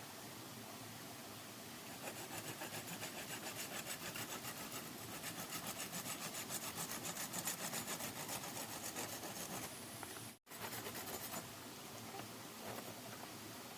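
Hand saw cutting through wood with quick back-and-forth strokes, starting about two seconds in and breaking off abruptly about ten seconds in, followed by lighter scraping on wood.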